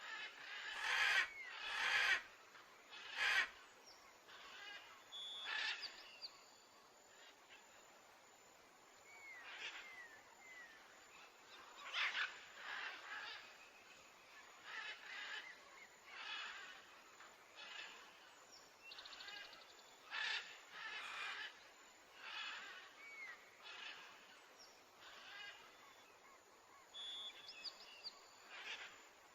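Faint steady rush of a waterfall and river, with bird calls and short chirps breaking in every second or two. Three sharp knocks come in the first few seconds.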